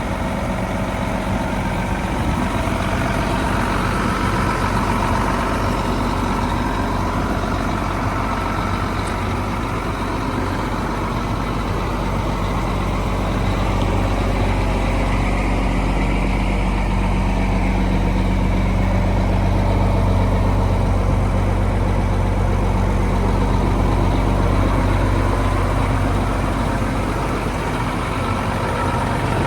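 Mack E7-400 inline-six diesel engine of a 1990 Mack CH600 truck idling steadily.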